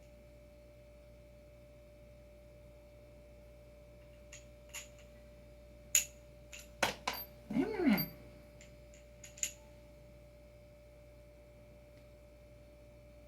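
A handful of sharp clicks and clacks from small skateboard hardware being handled (adapter parts, spacers and bolts), bunched in the middle, over a steady faint electrical hum.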